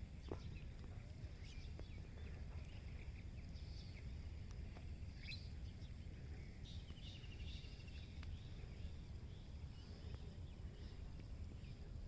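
Small birds chirping faintly with scattered short calls over a steady low background rumble; a rapid trill sounds about seven seconds in.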